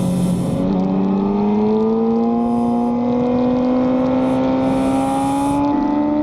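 Racing motorcycle engine heard from on board, pulling steadily with its pitch rising slowly, over a rush of wind and road noise.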